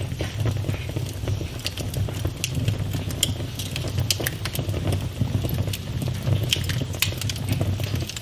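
Wood fire burning in a fireplace, crackling with frequent sharp irregular pops over a steady low rumble of the flames.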